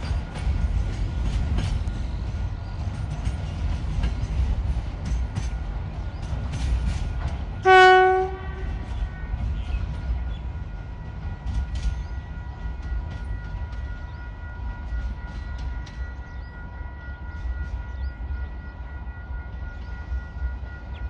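DSG class diesel-electric shunting locomotive running with a steady low engine rumble and scattered clanks. It gives one short horn blast about eight seconds in, the loudest sound here.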